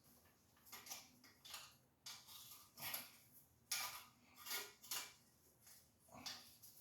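Faint metallic clinks and scrapes of hand tools being handled, a short sound about every half second to a second, with no drill running.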